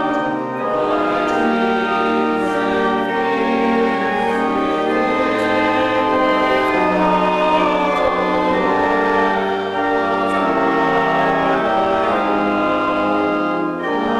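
A hymn sung by many voices with organ accompaniment, in long held notes.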